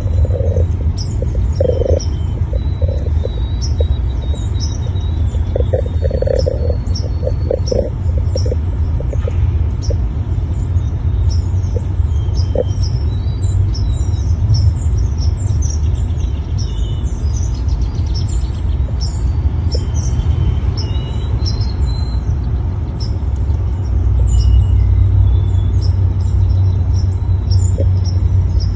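Small bird chirping, many short high chirps in quick succession, over a steady low rumble.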